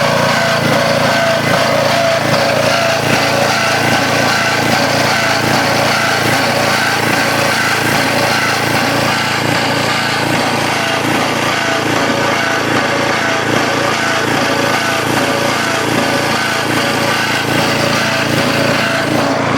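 Engine of an unidentified construction-site machine running steadily and loud, with an even low hum and no change in speed.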